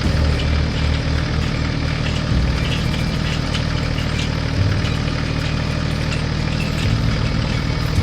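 Tractor engine idling steadily, with a low even running note that pulses in places.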